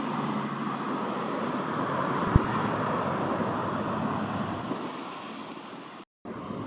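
Jet airliner engine noise, a steady rush that eases off over the last couple of seconds and breaks off briefly near the end. A single short low thump comes about a third of the way in.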